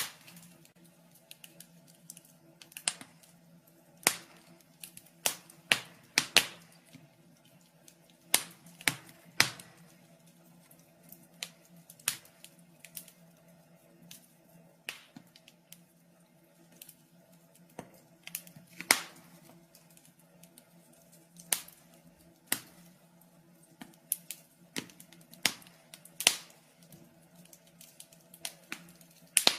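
Wood fire in a fireplace crackling, with irregular sharp pops and snaps of burning logs, some louder than others, over a faint steady low hum.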